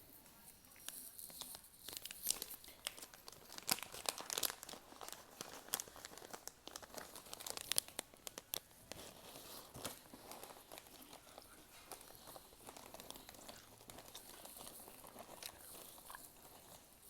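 Plastic snack packet being handled and torn open, crinkling with many sharp crackles.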